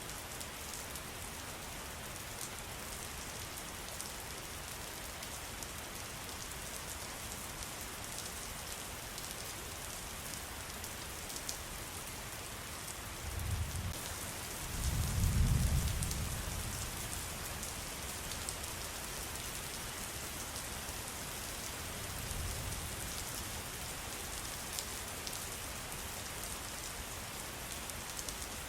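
Steady rain falling, with many fine drop ticks. A low rumble of distant thunder swells about halfway through, and a fainter one follows later.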